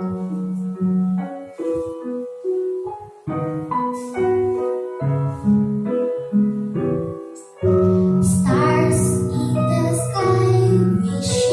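Piano accompaniment playing a melody of single decaying notes. About two-thirds of the way in, a girl's singing voice comes in over it and the music gets louder.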